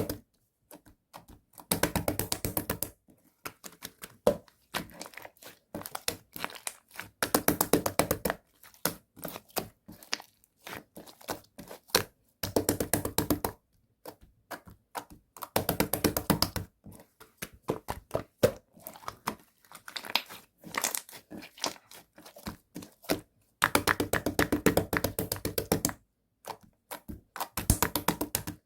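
Cookies-and-cream slime being squeezed and pressed by hand, giving dense runs of sticky crackling and popping clicks every few seconds, with scattered softer clicks in between.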